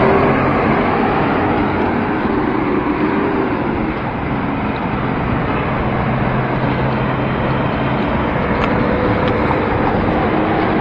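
Steady city street traffic heard from a moving bicycle: motor vehicle engines running nearby over continuous road and wind noise, with one engine's hum strongest around the middle.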